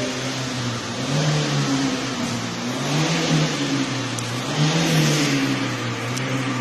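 Steady machine hum whose pitch swells and eases about every two seconds, with an even hiss over it.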